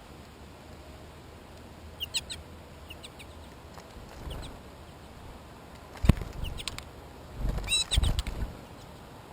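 An animal's short, high chirping calls, heard several times, with a sharp knock about six seconds in and a cluster of thumps near the end.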